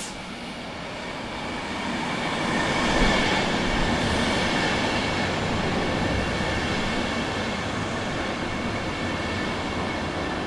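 A train running past on the rails: its rumble grows over the first three seconds and then holds steady, with a thin high whine above it.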